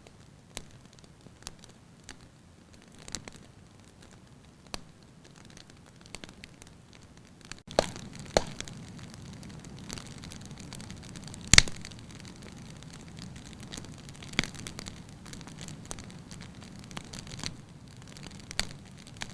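Wood fire crackling, with irregular sharp pops over a steady hiss; the hiss and low rumble of the flames grow louder about a third of the way in, and one pop a little past halfway is much louder than the rest.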